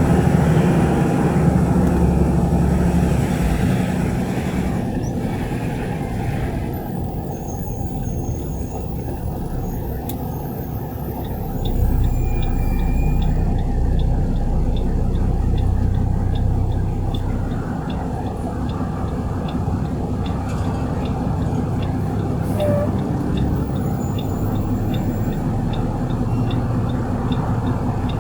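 Garbage truck engine running steadily with a low rumble, with extra hiss in the first several seconds. From about halfway a faint, regular ticking sounds about two to three times a second.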